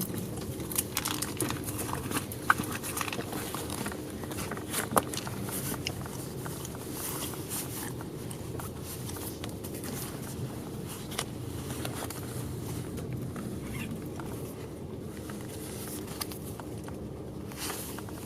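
Bus cabin noise: the engine's low rumble eases off over the first second or two, then runs steadily, with scattered clicks and rattles from the interior.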